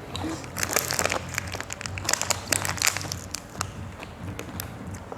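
Irregular crinkling and crunching of rice paper rolls with pig ear and vegetables being wrapped by hand and eaten, busiest in the first three seconds or so and thinning out after.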